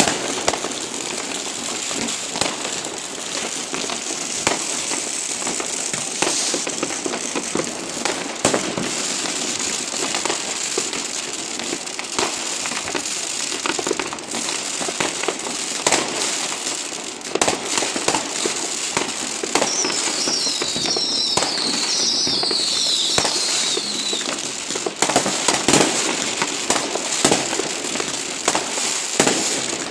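Dense New Year's Eve fireworks and firecrackers going off all around: a continuous crackle with many sharp bangs near and far. About two-thirds through, a run of short whistling glides sounds over the bangs.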